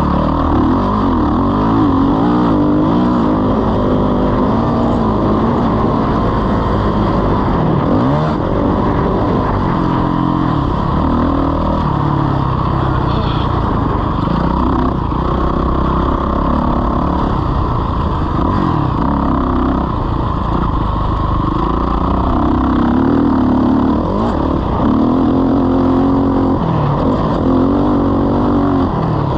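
Motocross bike engine running loud at race pace, its pitch rising and falling again and again as it revs up and backs off.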